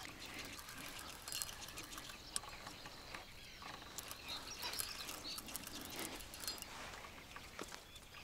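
Faint outdoor background with a few short bird chirps and scattered small clicks.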